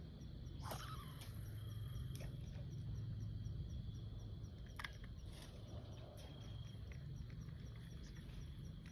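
Outdoor pond ambience: insects trilling steadily in the background over a low rumble, with a few sharp clicks, the first about a second in and another near the middle.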